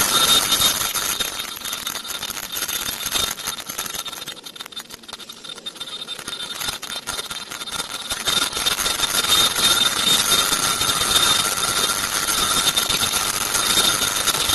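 Air-conditioner filter bag making machine running at high speed for sheet cutting and rewinding: a steady mechanical hiss with high whining tones. It eases off in the middle and builds back up.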